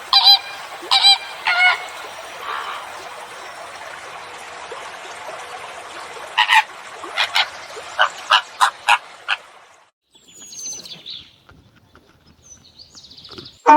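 A bird's loud honking calls: three spaced calls at the start, then a quicker run of shorter calls. About ten seconds in, the sound cuts to something quieter with a high whistling glide.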